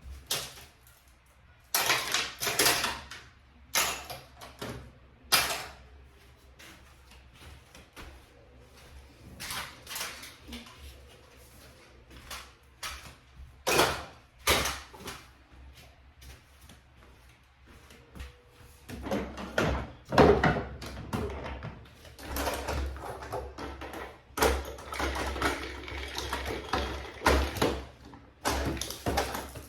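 Irregular knocks, clicks and clatter of household objects being handled and moved, with stretches of rustling in the second half.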